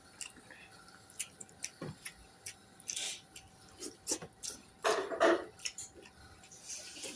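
A person eating close to the microphone: scattered wet mouth clicks and smacks of chewing, with a louder, longer smack about five seconds in.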